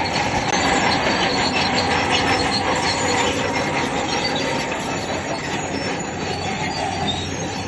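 Bulldozer working, its diesel engine running under steel crawler tracks that squeal and clank steadily.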